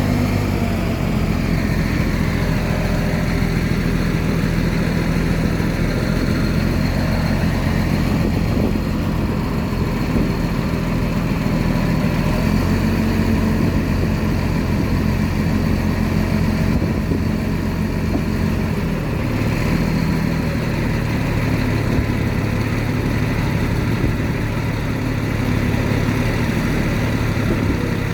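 Heavy diesel engine of earthmoving machinery running steadily throughout, its pitch shifting a little now and then with the load.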